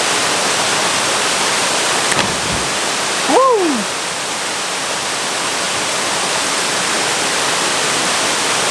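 Potter's Falls waterfall rushing, a steady loud wash of falling water. About three and a half seconds in, one brief call from a person rises and falls in pitch.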